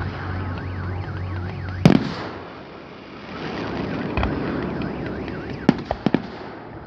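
Fireworks going off: one loud bang about two seconds in, then a quieter stretch and a quick cluster of sharp cracks near the end. Before the first bang a warbling tone rises and falls over and over.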